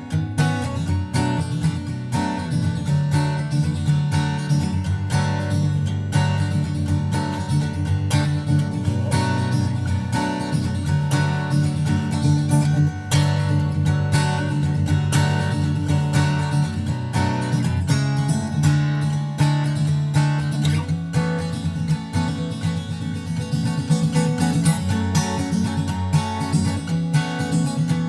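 Background music: an acoustic guitar arrangement, strummed and picked, with a steady rhythm.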